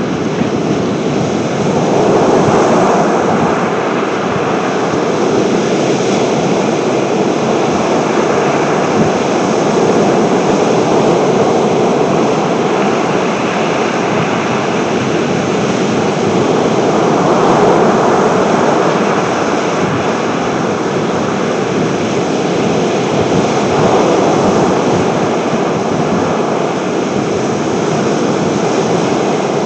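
Sea waves and wind making a steady rushing noise that swells and eases every few seconds.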